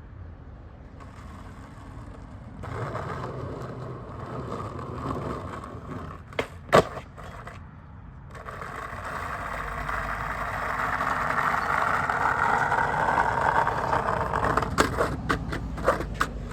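Skateboard wheels rolling on concrete, with one loud sharp clack of the board about seven seconds in. A longer roll grows louder, then several quick clacks come near the end.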